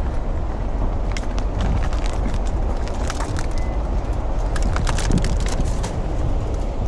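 Car driving on a highway in heavy rain: a steady low rumble of engine and road noise, with scattered sharp ticks throughout.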